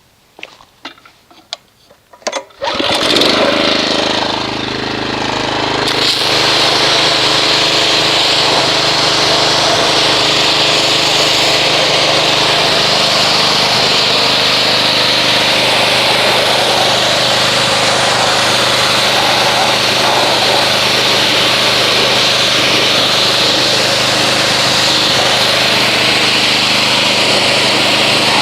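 A pressure washer starts up about two and a half seconds in and then runs steadily, its motor humming under the hiss of the water jet as the degreaser is rinsed off a car engine bay.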